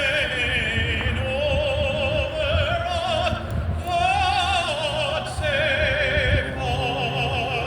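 A solo singer singing an anthem in an operatic style, holding long notes with a wide vibrato. A steady low rumble lies beneath.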